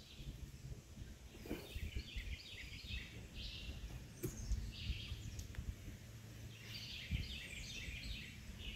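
Birds singing in the trees: several phrases of quick repeated high notes. A steady low rumble runs underneath, with a few light knocks.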